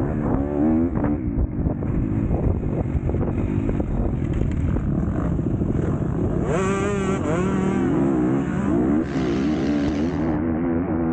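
Motocross bike engine racing hard, its pitch climbing and dropping again and again as the throttle opens and closes, with one sharp, high rev past halfway.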